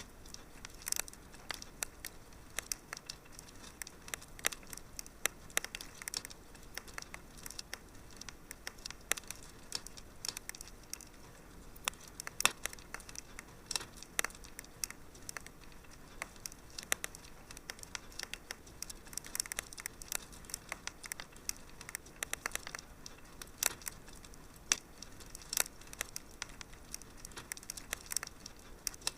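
Wood fire crackling in a fireplace: a steady scatter of sharp, irregular pops and snaps over a soft hiss.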